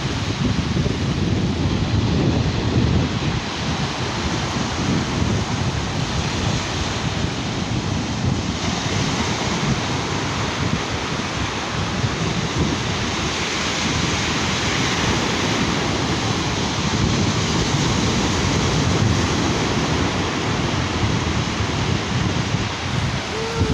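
Sea surf washing steadily, with wind buffeting the microphone in a low, gusty rumble.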